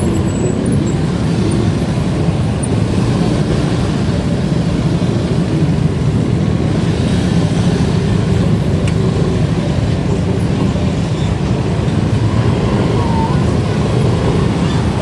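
Steady wind and road noise on the camera microphone of a moving bike, mostly low-pitched rumble, with traffic mixed in.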